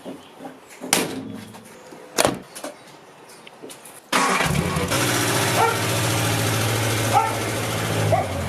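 Honda CD175 twin-cylinder motorcycle engine being started: two sharp knocks, then about four seconds in the engine catches and runs steadily at idle.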